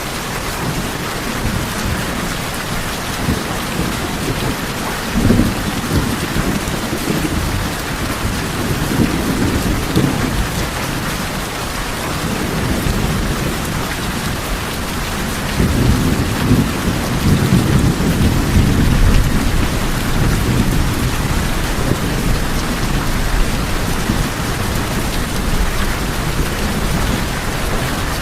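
Steady rain drumming on a tin roof, with thunder rumbling low in the background: short swells about five and ten seconds in, and a longer roll from about sixteen to twenty seconds in.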